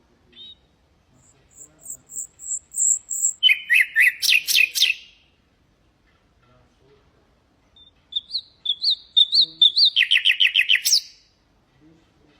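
Common nightingale singing two phrases. Each is a run of quick repeated notes that builds into a loud, rapid trill. The first opens with a series of high, even notes about a second in; the second starts about eight seconds in.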